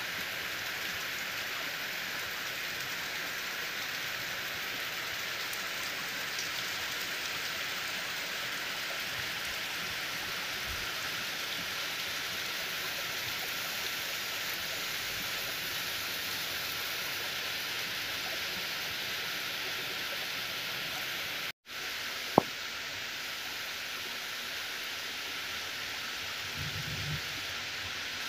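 Heavy rain falling steadily on trees and palm fronds, an even hiss. The sound cuts out for an instant about three-quarters of the way through, and a single sharp click follows just after.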